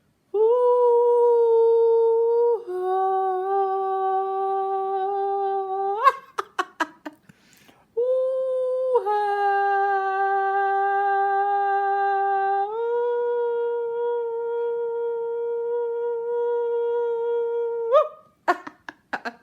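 Long, steady hummed notes, each held for a few seconds and stepping between two pitches, broken about six seconds in by a quick run of sharp clicks before the humming resumes.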